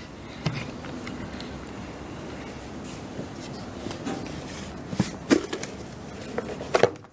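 Plastic salad spinner being handled, with a few light knocks about five seconds in and again near the end, over a steady background hiss.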